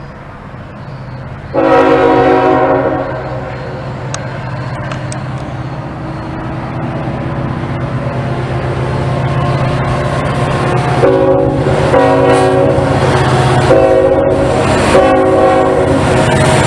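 Train horn sounding one loud blast about a second and a half in, then three more blasts near the end, over the steady drone of the locomotive growing louder as the train approaches.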